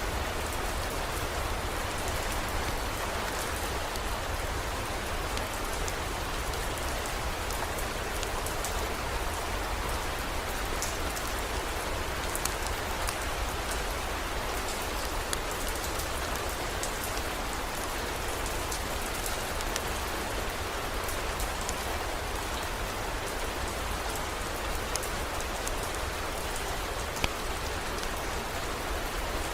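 Heavy rain falling steadily as an even hiss, with scattered sharp ticks of individual drops and a steady low rumble underneath.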